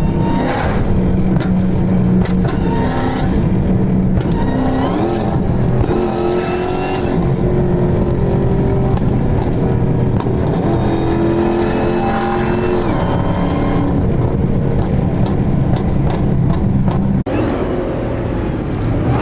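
Supercharged Hellcat V8 engines running loudly, with the pitch stepping and gliding up and down as they are revved. There is a sudden break about three-quarters of the way through.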